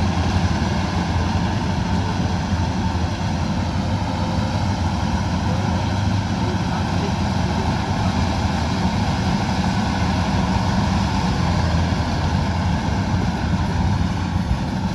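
Kubota combine harvester running steadily under load: a constant diesel engine drone with the rushing noise of the cutting and threshing machinery.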